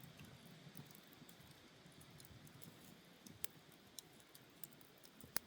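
Campfire crackling faintly, with scattered sharp pops and snaps, the loudest near the end, over a low steady rustle of burning.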